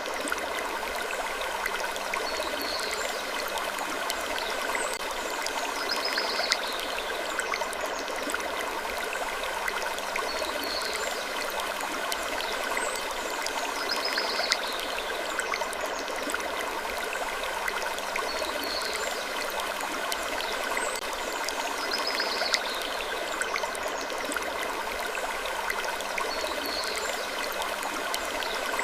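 Sleep-ambience wood creaking: short high creaks recurring about every two seconds over a steady, water-like rushing hiss.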